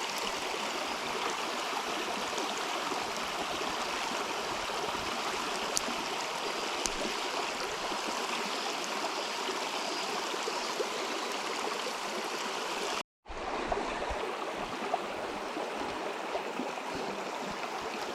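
River water flowing steadily, with a few faint clicks. The sound drops out completely for a moment about thirteen seconds in.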